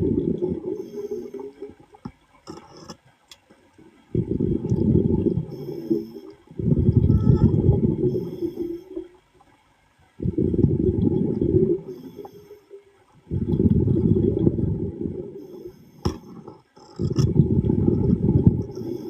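Underwater, a diver's exhaled air bubbling out of the breathing regulator in low rumbling bursts, one exhalation about every three seconds, with short quiet pauses for each inhalation.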